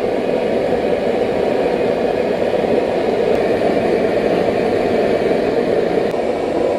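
Gas wok burner running at full flame, a steady rushing noise, under a wok of snails boiling hard in a chili broth.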